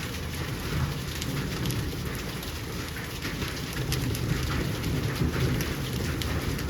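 Heavy rain falling steadily, with many close drips and splashes of individual drops.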